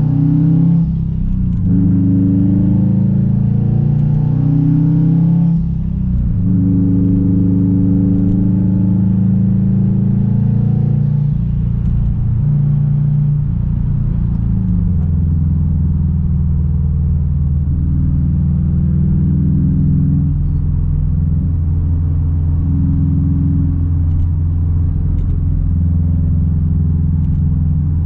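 Straight-piped 2006 Subaru WRX STI's turbocharged flat-four engine pulling under load, with two brief drops in sound about one and six seconds in, like gear changes. After about fifteen seconds it settles into a steady low exhaust drone, as at a cruise.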